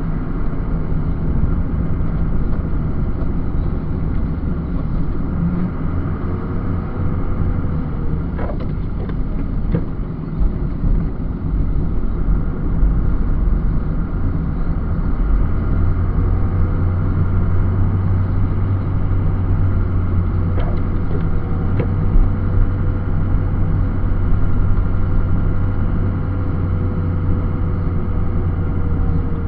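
Snow-plow truck's engine running steadily while plowing, with a few brief clicks.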